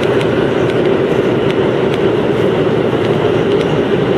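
Chiba New Town Railway 9000 series train running steadily, a continuous rumble heard from inside the leading car, with a few faint clicks.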